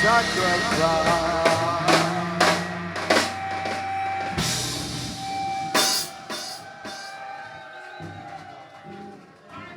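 Live rock band winding a song down: scattered drum and cymbal hits over held instrument tones, the whole sound fading away.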